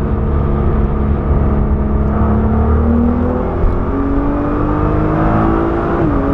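Nissan GT-R Nismo's twin-turbo 3.8-litre V6 heard from inside the cabin, accelerating hard with its pitch rising steadily, then dropping suddenly with a gear upshift about six seconds in.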